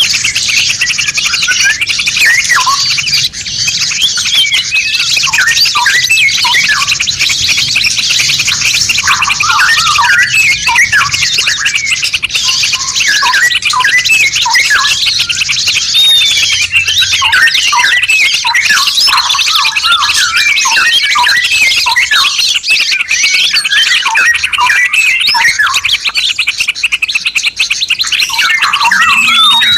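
Songbirds singing: a dense run of quick, varied chirps and whistled notes over a continuous high, buzzing trill.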